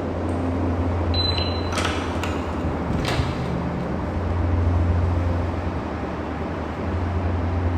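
Inside a moving bus: a steady low engine drone with road noise, a brief high squeal just over a second in, and a few sharp rattles and clatters of fittings a couple of seconds in.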